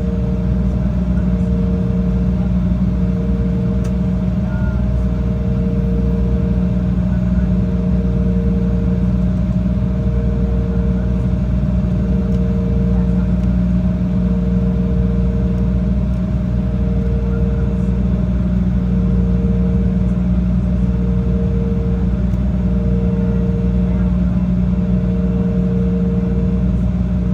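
Airliner cabin noise in flight: the jet engines and airflow make a steady, loud low drone. A mid-pitched hum swells and fades about every second and a quarter.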